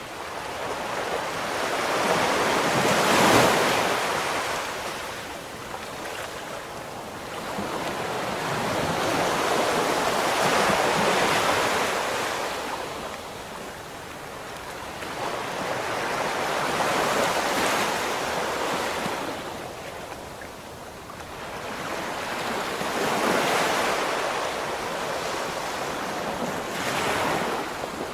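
Ocean surf: waves breaking and washing in, swelling and fading five times, several seconds apart.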